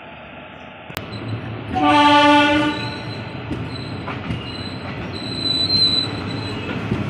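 Passenger train pulling out. A loud horn blast lasting about a second comes near the start. Then the coaches roll and clatter over the track, with a faint high wheel squeal near the end.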